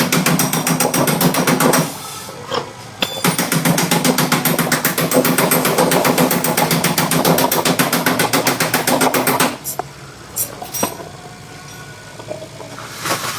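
Rapid mechanical hammering, many strokes a second, in two long runs: it breaks off about two seconds in, starts again a second later, and stops about two-thirds of the way through, leaving a few scattered clicks.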